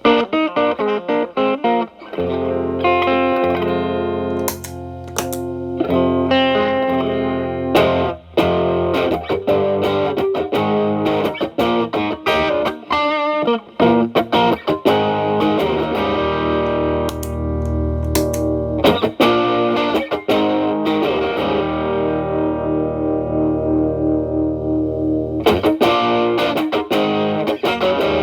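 Electric guitar, a Fender Telecaster, played through an Xotic BB overdrive pedal at a high gain setting into a Marshall Valvestate amp's clean channel: driven picked licks and chords, with long sustained notes in the second half.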